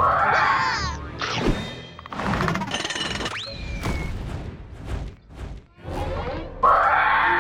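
Cartoon soundtrack: a short yell, then music under comic sound effects, with thuds and crashes, a whistle that shoots up then slides down about halfway through, and a loud burst near the end.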